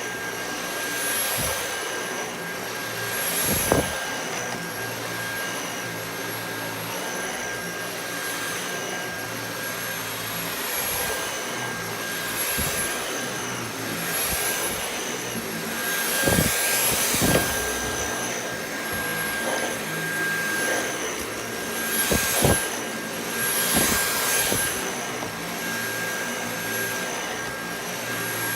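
Dyson V8 Animal cordless stick vacuum running over carpet: a steady high motor whine over rushing air, swelling and easing with each push and pull of the floor head. A few sharp knocks of the head along the way.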